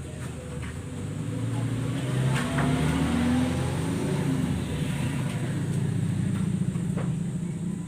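A motor vehicle's engine running, growing louder over the first few seconds and then holding steady, with a few sharp knocks.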